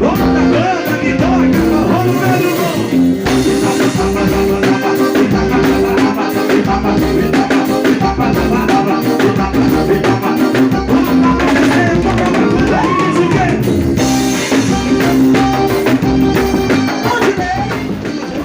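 Live forró band playing loudly, with a steady drum-kit beat under guitar and other pitched instruments.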